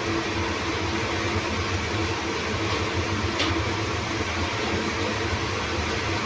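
Small electric fan in an under-counter fridge running steadily: an even whirring hum with a few steady tones, and one brief click about three and a half seconds in.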